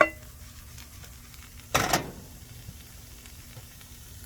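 A utensil clinks once against a frying pan, then scrapes once through a chicken and vegetable filling about two seconds in, over a faint sizzle.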